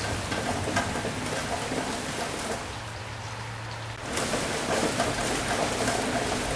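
Steady rain falling and pattering on a surface. It thins and quietens briefly past the middle, then comes back fuller about four seconds in.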